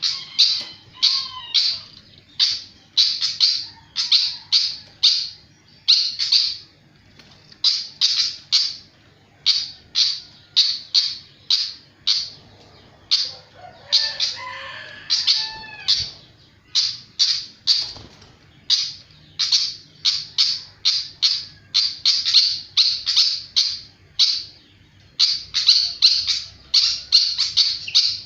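Sikatan (flycatcher) singing vigorously: a rapid string of short, sharp, high-pitched chirps, about two to three a second, broken near the middle by a brief, more varied warbled phrase.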